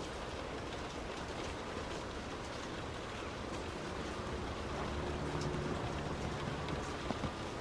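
Steady rush of heavy rain and tyres on a wet road from a car driving in a downpour. A low hum swells through the middle, and there are a couple of sharp taps near the end.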